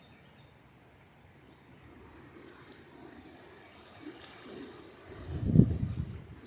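Fast-flowing floodwater rushing, a steady noise that rises from about two seconds in. About five seconds in a loud low rumble of wind buffeting the microphone takes over.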